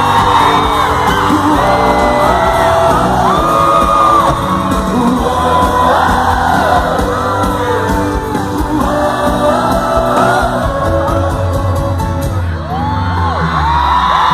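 Live sertanejo concert music, with the crowd singing along and screaming and whooping.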